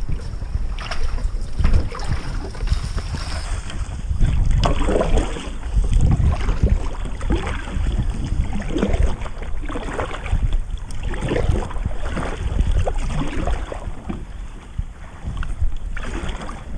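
Kayak paddle strokes dipping into the water, about one a second, with wind rumbling on the microphone.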